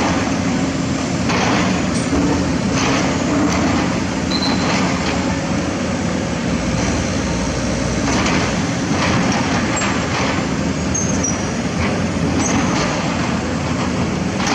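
Excavator's diesel engine running steadily, with irregular short rough noises from the work over it.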